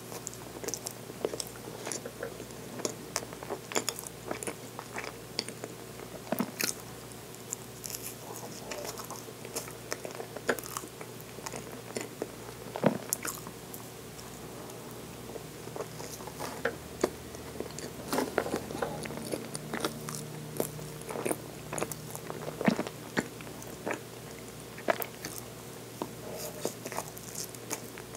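Close-miked chewing of soft chocolate roll cake (nama-choco roll cake) with its cream filling: many small, sharp wet mouth clicks and smacks, repeated steadily throughout.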